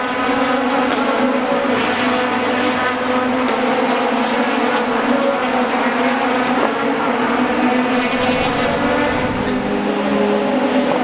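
Race car engines running at a fairly steady pitch, several heard at once.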